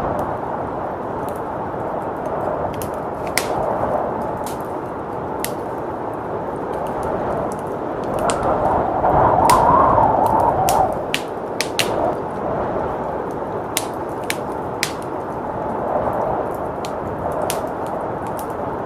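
A wood fire crackling with scattered sharp pops, over a steady blizzard wind that swells to its strongest gust about halfway through.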